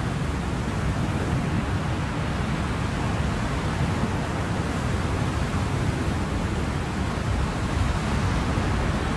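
Steady ocean surf: a continuous deep rush of waves with no distinct breaks or swells.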